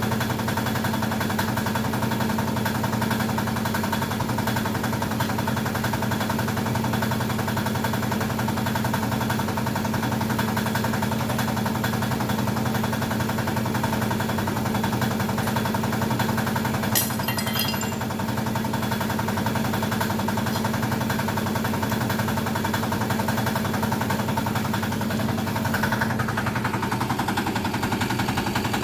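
A small motor running steadily at an even pitch, with a brief rattle about seventeen seconds in.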